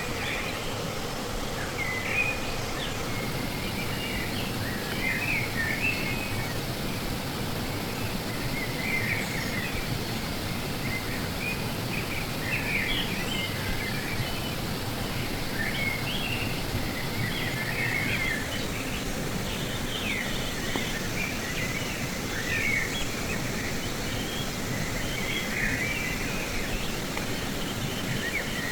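Steady rush of a fast-flowing river, with small birds chirping in short calls every second or two over it.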